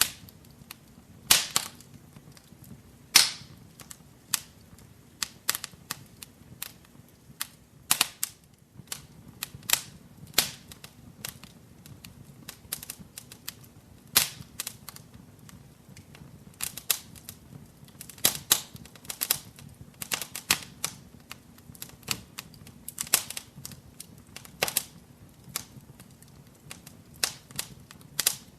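Wood fire in a fireplace crackling: irregular sharp pops and snaps, several a second at times, with a few louder cracks, over a faint low rumble of the burning.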